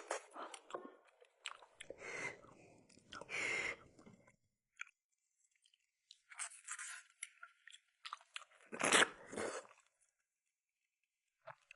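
Close-miked eating: irregular bursts of chewing and mouth noise, with dead silence between them and the loudest burst about nine seconds in.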